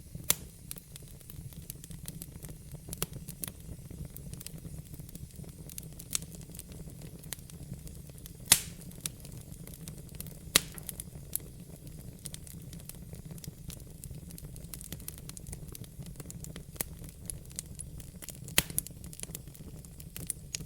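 Wood logs burning in a fireplace: irregular crackles and sharp pops over a steady low rumble, the loudest pop about eight and a half seconds in.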